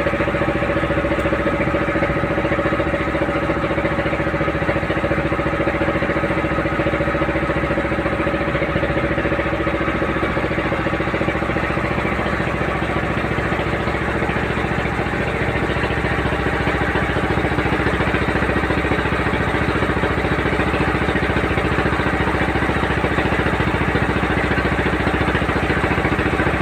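A small boat's engine running steadily at constant speed, with a constant engine hum.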